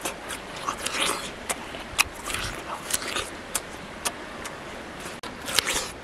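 A man biting and chewing raw jicama: crisp crunches at irregular intervals, roughly one or two a second.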